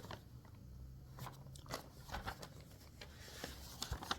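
Faint rustling and crinkling of paper documents being leafed through, a few crisp rustles spaced irregularly, while someone searches a file for an accident report sketch.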